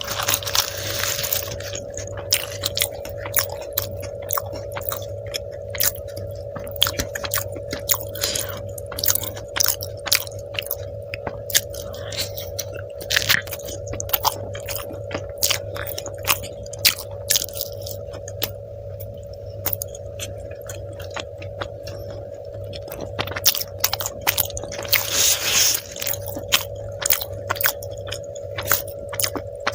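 Close-miked chewing and biting of food, with many short irregular mouth clicks and a steady hum underneath.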